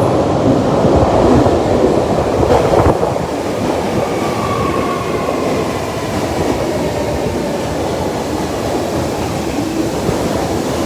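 Electric commuter train running past at close range: a steady rail rumble with wheels clacking over rail joints a few times in the first three seconds, and a faint whine that falls gently in pitch around the middle.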